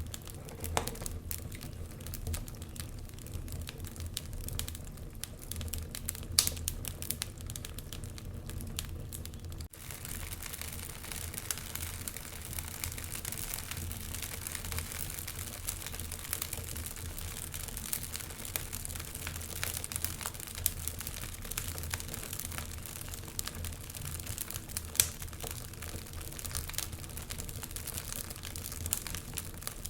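Wood fire burning in a fireplace, crackling with irregular sharp pops over a steady hiss and low rumble. About ten seconds in, the hiss grows brighter and stays so.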